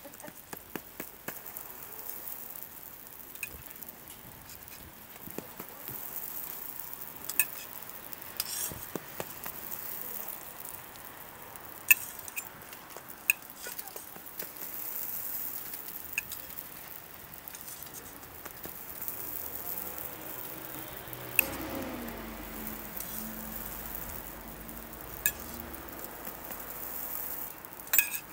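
Hotteok frying in oil on a flat steel griddle: a steady sizzle, broken by sharp metallic clinks as a stainless pancake press and tongs knock against the griddle. About three-quarters of the way through, a low hum drops in pitch and holds for a few seconds.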